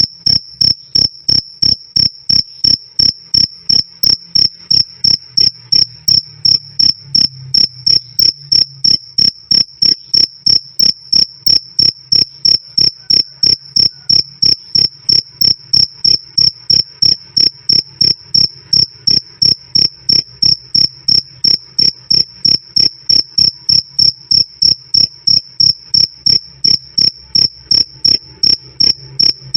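Male field cricket chirping loudly and clearly: one high-pitched chirp repeated in a steady, even rhythm of about three chirps a second.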